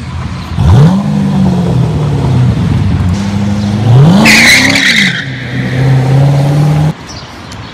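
Chevrolet Corvette C6 V8 engine revving hard: a sharp rev about a second in whose pitch sinks slowly, then a second rev near the middle with a short tyre squeal as the car pulls away. It settles to a steady run and cuts off about a second before the end.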